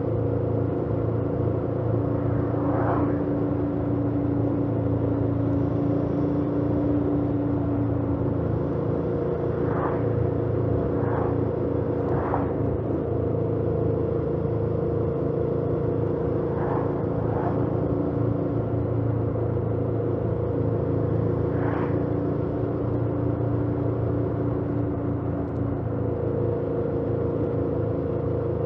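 A 2018 Yamaha MT-07's 689 cc parallel-twin engine, stock exhaust, running at a steady, nearly constant speed while the bike is ridden, with road and wind noise under it. Several short, higher-pitched blips rise briefly above the engine note.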